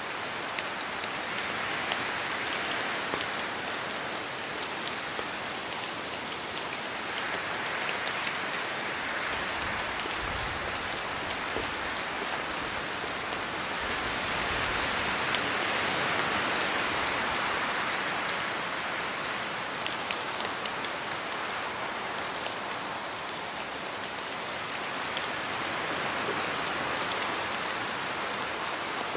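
Steady rain in a forest, a dense hiss with many individual drops ticking through it, swelling and easing in slow waves every several seconds. A brief low rumble comes about ten seconds in.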